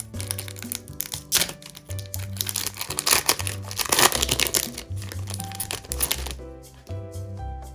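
Background music, over the crinkling and crackling of packaging being handled, which dies down about six seconds in.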